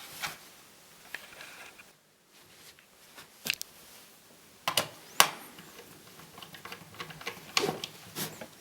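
Irregular clicks and light knocks of small laptop parts and tools being handled, the sharpest about five seconds in.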